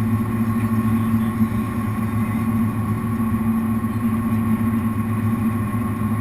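Jet boat's V8 engines running steadily at low speed, a constant drone.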